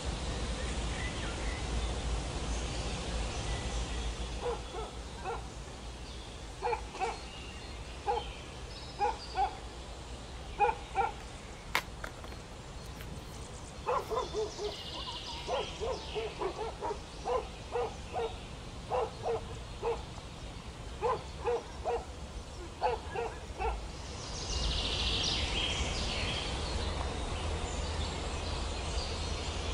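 A bird calling outdoors in repeated short, low two-note hoots, over and over at an even pace. Higher chirping from other birds comes in near the end.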